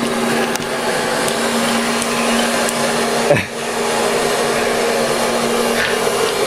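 Vacuum cleaner running steadily, with one sharp knock a little over three seconds in.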